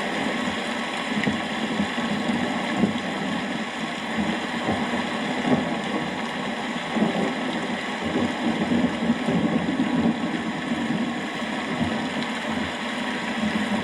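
Steady rain falling, with a low rumbling underneath that swells for a few seconds about eight seconds in.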